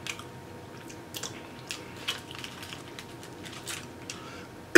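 Close-miked wet chewing and mouth clicks while eating saucy BBQ ribs: a scatter of small, irregular smacks and clicks.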